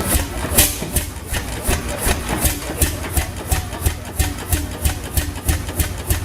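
Old diesel engine running with an even, regular beat of about four to five strokes a second over a low rumble.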